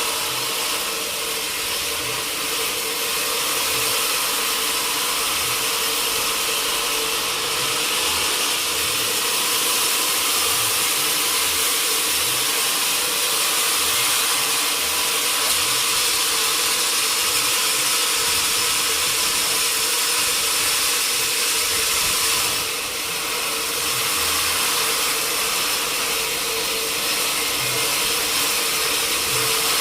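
Sawmill machinery running steadily: continuous mechanical clatter and noise over a constant hum, with faint irregular low knocks. The level dips briefly a little after the middle.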